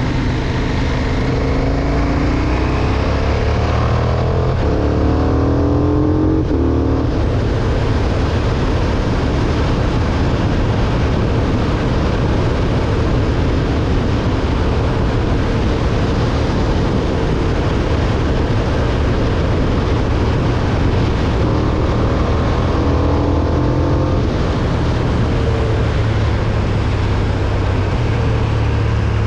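KTM 1290 Super Duke R's V-twin engine under way, climbing in pitch as it accelerates during the first several seconds and again a few seconds before the end, with heavy wind rush on the microphone that covers the engine in between.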